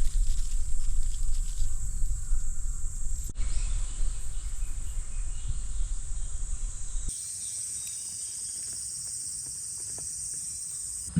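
Steady high-pitched chorus of insects in woodland, with an uneven low rumble underneath. The rumble stops abruptly about seven seconds in, leaving the insect chorus on its own, a little quieter.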